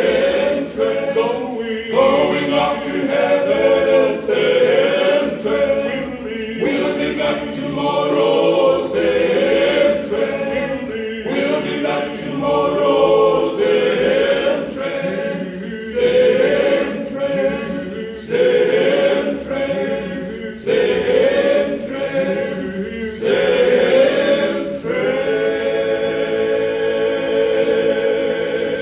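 Male gospel quartet singing in close harmony, phrase after phrase, ending on a long held chord near the end.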